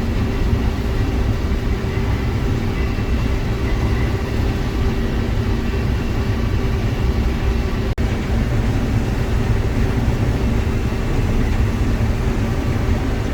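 Combine harvester running steadily while harvesting corn, heard from inside the cab: a constant low drone with a few held tones. The sound drops out for an instant about eight seconds in.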